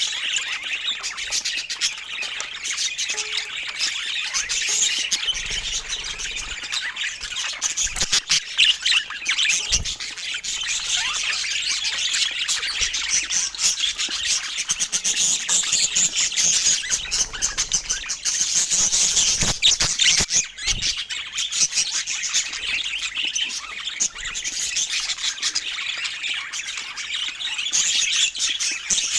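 Several budgerigars chattering without a break: a dense stream of many overlapping high chirps, warbles and short calls.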